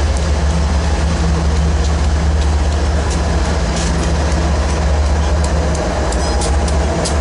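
BNSF intermodal freight train rolling past, a steady rumble of wheels on rail with a low drone, and a few sharp clicks near the end.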